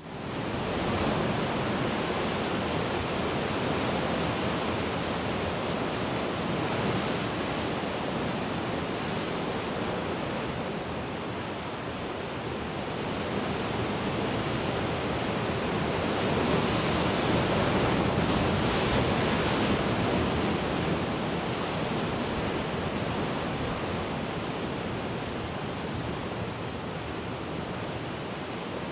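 Mediterranean sea waves washing against the shore in a continuous rushing surf, swelling louder about halfway through and easing off again.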